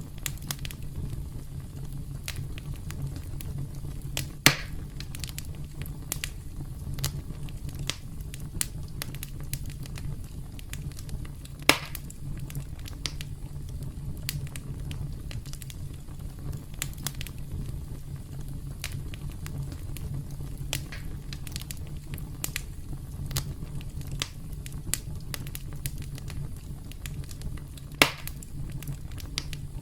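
Wood campfire crackling over a steady low rumble, with frequent small snaps and three louder pops: about four seconds in, near the middle, and near the end.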